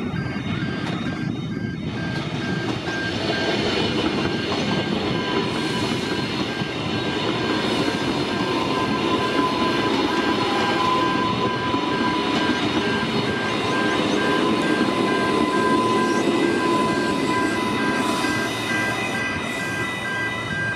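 Queensland Rail electric suburban trains passing close by: a steady rumble of wheels on the track with a steady electric motor whine. Level crossing warning bells ring in the first couple of seconds and again near the end.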